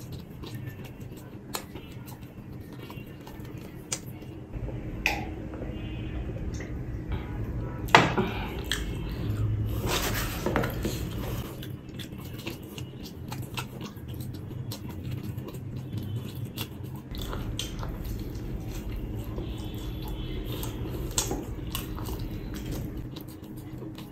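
A person chewing mouthfuls of pizza close to the microphone, with scattered small clicks and knocks of food and dishes on the table; the loudest knock comes about eight seconds in.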